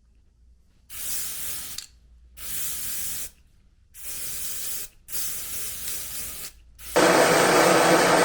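Four short bursts of spray from a spray can, each about a second long with pauses between. Near the end a much louder, steady motor noise starts and keeps running.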